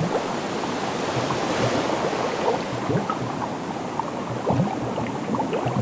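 Ocean water sound effect: a steady wash of sea water with many short scattered gurgles.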